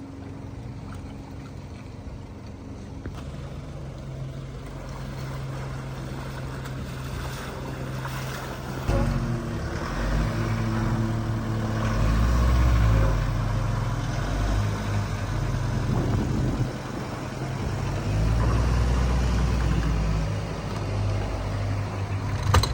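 A vehicle engine running and getting steadily louder. From about halfway its pitch steps up and down as it is revved.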